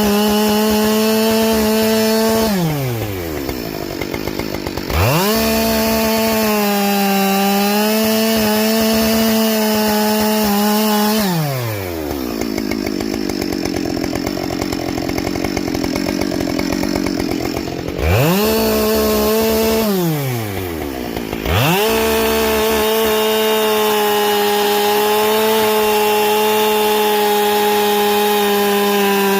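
Husqvarna 572 XP two-stroke chainsaw with a carbide chain cutting firewood: held at full throttle, it drops to idle about two and a half seconds in and revs back up near five seconds, idles again from about twelve to eighteen seconds, dips briefly around twenty seconds, then runs at full throttle until it falls off at the very end.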